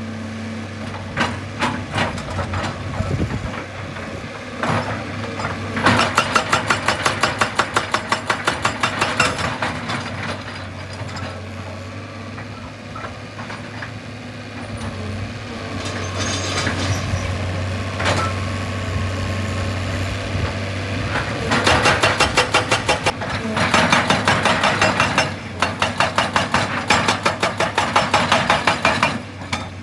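Excavator's diesel engine running steadily while its hydraulic rock hammer pounds rock in spells of rapid, evenly repeated blows, two long runs of them, the second near the end.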